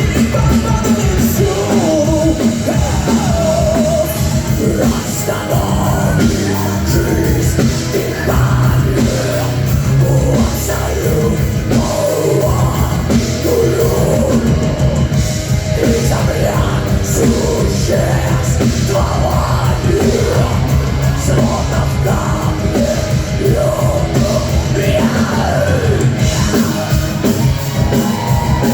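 Live heavy metal band playing loud and dense, with a bending melodic lead line over the rhythm.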